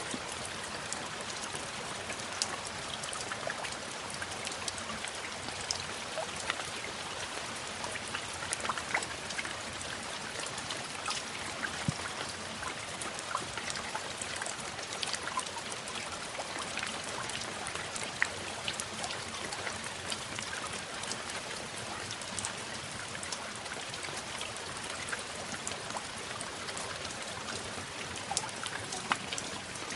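Steady rain falling, with many separate drop impacts ticking through an even hiss.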